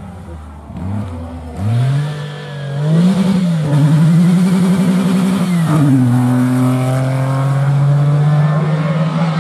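Rally car engine accelerating hard on a special stage: the engine note climbs from about a second and a half in and holds high. Near six seconds in the pitch drops sharply at a gear change, then holds steady under load.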